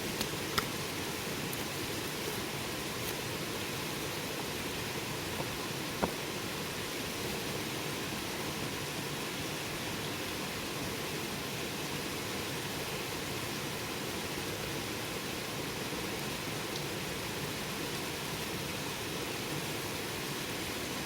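Wood campfire burning with a steady hiss, and a few sharp crackling pops near the start and about six seconds in.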